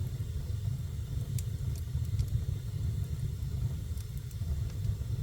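Wood fire burning in a fireplace: a steady low rumble of the flames, with a few faint crackles from the burning wood about a second and a half in, around two seconds, and near four seconds.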